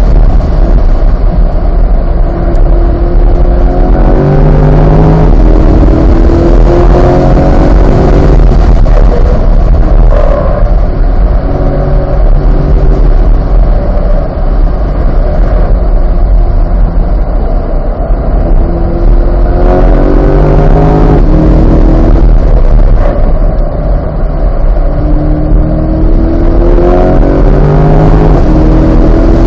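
Onboard sound of a C8 Corvette's 6.2-litre V8 accelerating hard on track, its note rising through several gears with quick upshifts, then easing under braking between the runs. A heavy, constant rumble of wind and road noise sits under it on an overloaded microphone.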